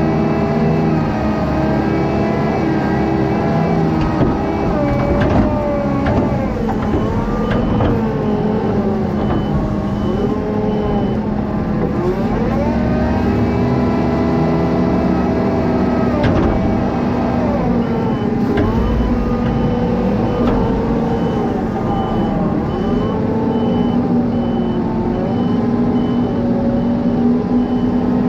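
Heavy diesel farm machinery working, its engine revving up and down again and again as it moves back and forth. A reversing alarm beeps steadily from about two-thirds of the way in.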